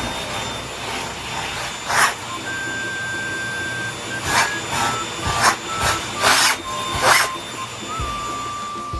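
Household vacuum cleaner running, its steady rush broken by about five short, louder surges of noise over the second half.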